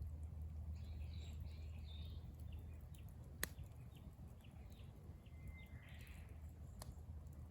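Wood campfire burning with a couple of sharp pops and crackles, one about three and a half seconds in and one near the end, over a low steady rumble. Birds chirp faintly in the background.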